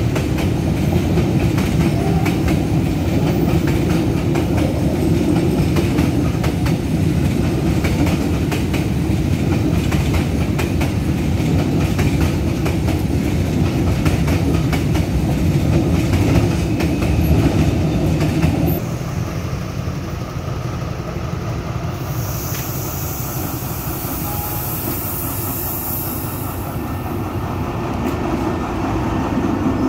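Train rolling past, its wheels clattering over the rail joints with a stream of knocks. About 19 seconds in the sound drops and becomes steadier.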